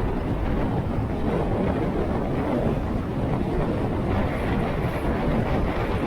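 Wind buffeting the microphone of a moving motorcycle, a steady low rush with the bike's running noise underneath.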